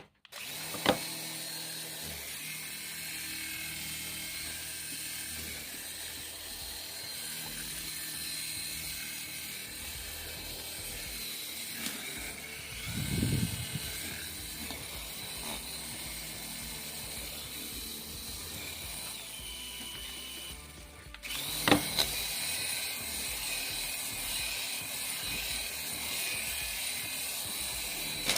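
Small toy electric motor and plastic gearing running with a steady whir and high whine; it stops briefly about two-thirds of the way through with a click, then starts again a little louder.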